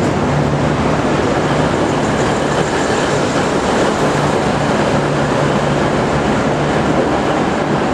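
V/Line VLocity diesel multiple unit running in the station, a steady low engine drone under an even rush of train noise.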